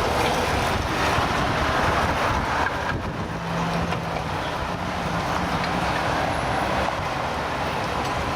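City street traffic: a steady rush of passing vehicles, with a low engine hum joining about three seconds in.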